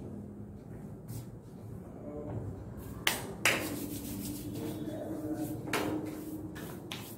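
A few sharp knocks and rustles as a man moves away from the microphone, with a steady low hum from about three and a half to six seconds in.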